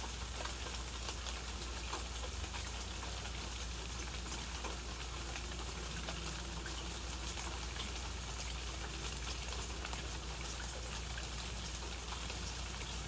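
Steady rain falling, with many individual raindrops ticking close by throughout.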